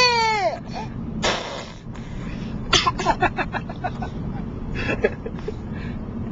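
Baby's funny vocal noises: a high squeal that rises and falls at the start, a breathy burst about a second in, then a quick run of short sputtering pulses around three seconds in, over the steady road rumble of a moving car.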